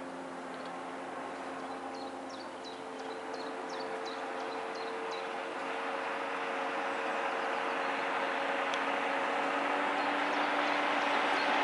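Jet ski engine running, its hum and water-spray hiss growing steadily louder as the craft approaches. A run of short high chirps sounds during the first few seconds.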